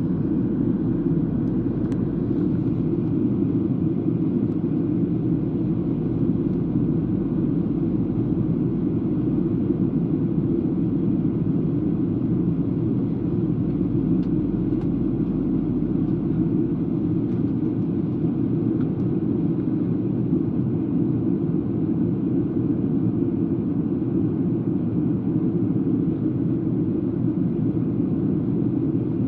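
Boeing 737-800 airliner on approach: a steady, even rumble of engine and airflow noise, unchanging in level.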